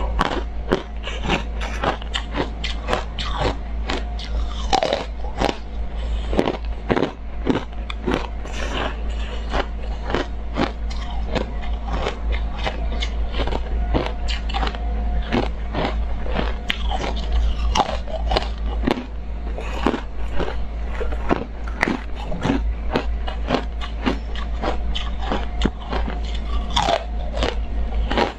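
Coloured ice being bitten and chewed close to the microphone: crisp crunches and cracks come several times a second without a break. A steady low hum runs underneath.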